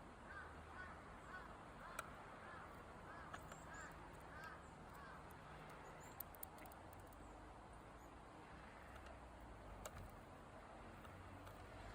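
Pygmy woodpecker giving faint short chirps in quick series, with a few sharp taps between them.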